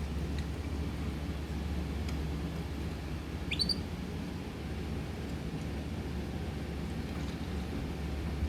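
A pet bird gives one short, rising chirp about three and a half seconds in, over a steady low hum.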